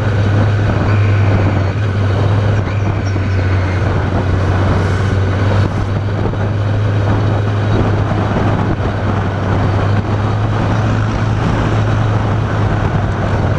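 Motorcycle riding at a steady speed: a constant low engine drone under the rush of wind and road noise on the rider's microphone.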